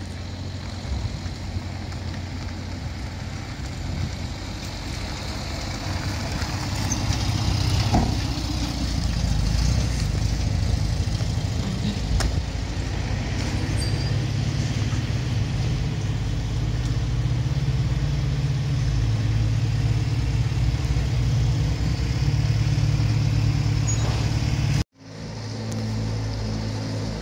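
Old car engine running steadily at low speed while the car rolls slowly, with a couple of short knocks partway through.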